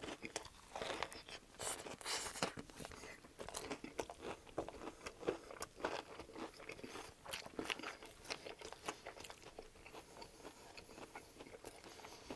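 Chewing a mouthful of chicken ranch wrap in a flour tortilla: many small wet crunches from crispy breaded chicken fingers, fried onions and lettuce, coming thick at first and thinning out toward the end.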